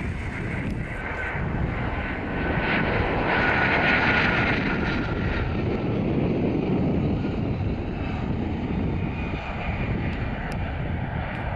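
A passing fixed-wing aircraft's engines: a broad rush that swells to its loudest about four seconds in, with a high whine that drops slightly in pitch.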